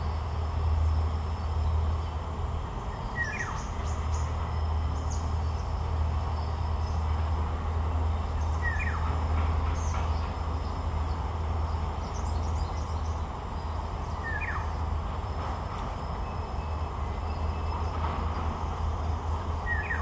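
Birds calling: a short call that drops sharply in pitch repeats about every five to six seconds, with fainter high chirps from other birds. Under them runs a steady low rumble.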